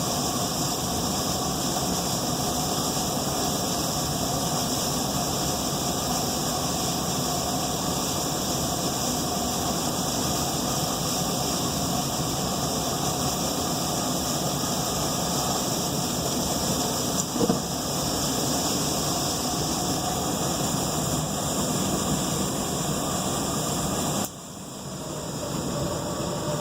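A furnace running with a steady mechanical hum and whir. There is a brief knock about 17 seconds in; about 24 seconds in the sound drops suddenly, then builds back up over a couple of seconds.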